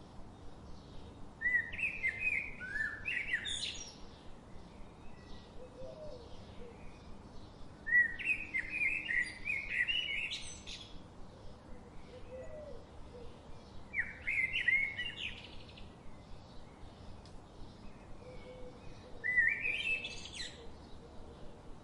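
A songbird singing a short, warbling phrase four times, about every six seconds, with fainter chirping from other birds between the phrases.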